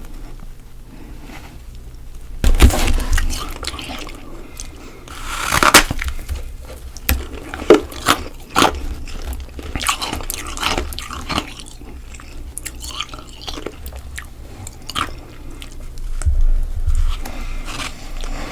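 Freezer frost being bitten and chewed: irregular loud crunches with quieter crackling chews between them.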